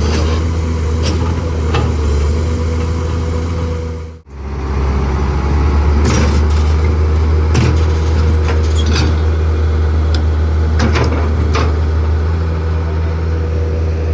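Heavy earthmoving machine's diesel engine running steadily, with scattered sharp metallic clanks, typical of steel track and undercarriage parts knocking together. The sound drops out briefly just after four seconds in, then resumes.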